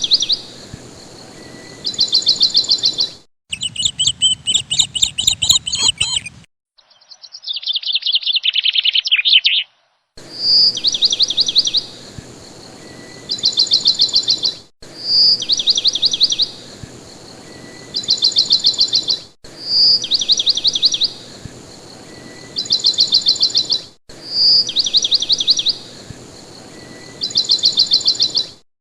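Bird chirps and fast trills: two short different bursts of chirping and trilling, then one call (a sharp chirp followed by a quick trill) repeated identically about every four and a half seconds, each piece starting and stopping abruptly.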